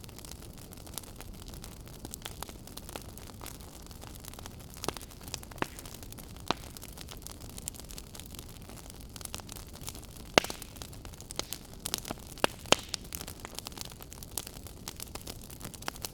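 Fire crackling in a fireplace: a steady low rumble and hiss with scattered sharp pops, several louder pops coming in the second half.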